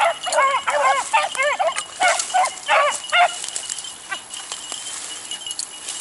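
Beagles baying on a rabbit's track: a run of arching, drawn-out bays, about three a second, which stops a little over three seconds in. The pack is in full cry on a hot trail, running the rabbit back around its circle.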